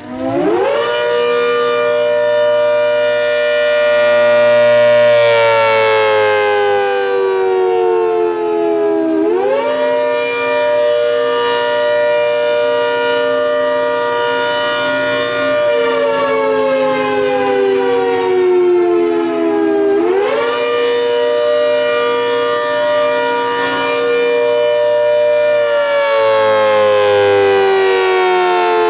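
ACA Hurricane MKII civil defense siren sounding the attack signal, a two-note chord that rises quickly, holds its peak for about five seconds, then winds slowly down before rising again, about every ten seconds.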